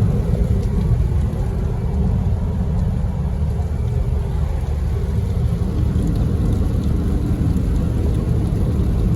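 A car on the move in the rain: a steady low rumble of engine and road noise, with faint ticks of rain over it.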